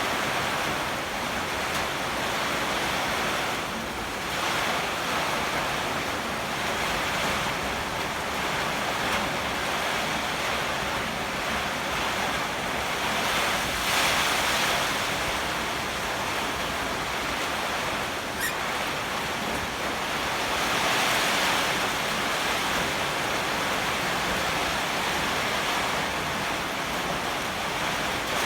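Heavy typhoon rain with strong wind: a steady rush that swells in gusts several times.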